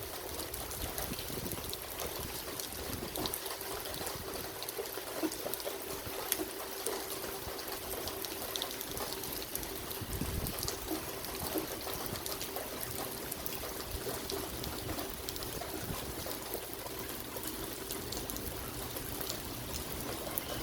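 Steady rain with water trickling and pouring, full of small drop ticks, and a faint steady tone beneath.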